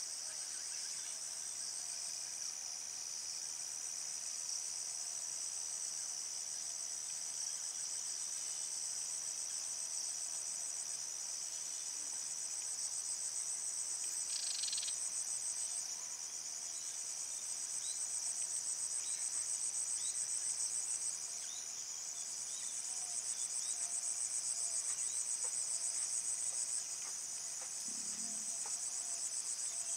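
A continuous high-pitched trilling chorus of insects that grows louder and drops back several times.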